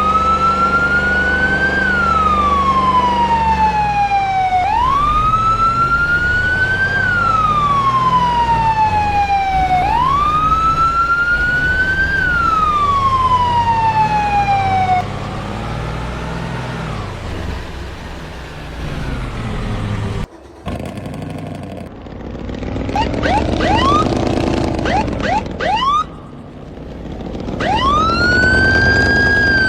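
Siren wailing in slow cycles, each a quick rise then a long fall, about every five seconds. Around the middle it breaks off for a few seconds of shorter, jumbled rising tones, and the wail comes back near the end.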